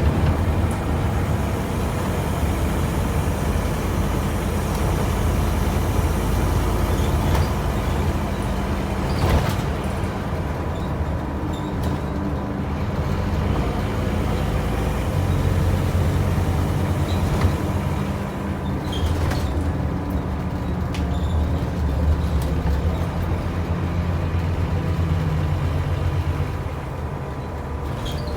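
Scania N230UB OmniCity bus running on its five-cylinder diesel engine with a steady low rumble whose note shifts a few times. A few brief sharp sounds cut in.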